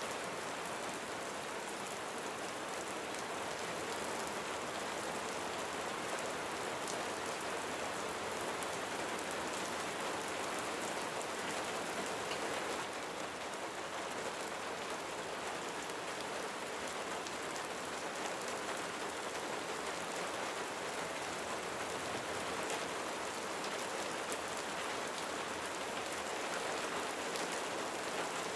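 Steady rain falling on a roof, an even patter with fine drop ticks throughout.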